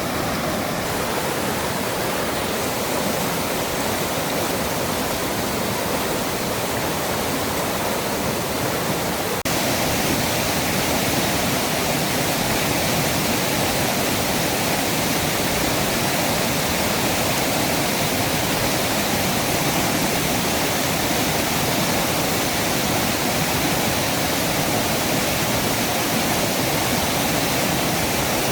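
Rain-swollen mountain stream rushing hard, a steady full roar of fast water. About nine seconds in it turns a little louder and brighter, as from a closer stretch of the current.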